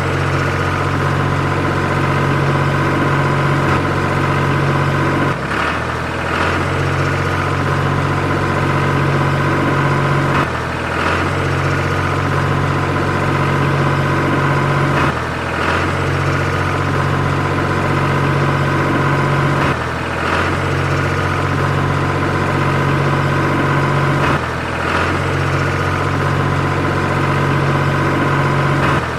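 Steady idling tractor-engine drone that restarts in an identical loop about every five seconds.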